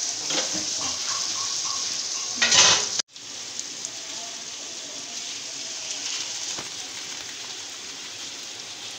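Mixed vegetables sizzling as they fry in a large aluminium pot while a wooden spoon stirs and scrapes through them. A louder scrape comes just before the sound cuts off abruptly about three seconds in, and steady sizzling follows.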